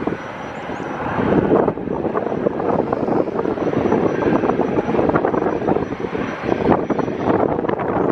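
Jet airliner engines running, a loud steady rush of engine noise with a thin high whine over it.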